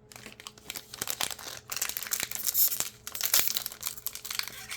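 Plastic trading-card pack wrapper crinkling and tearing as it is handled and ripped open, a dense crackle of many small clicks.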